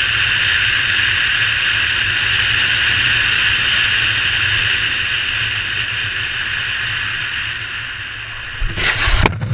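Wind rushing past a motorcycle rider's helmet over a low drone, easing off a little near the end. About nine seconds in comes a sudden, loud, noisy crash as the bike goes down, apparently having slipped on oil.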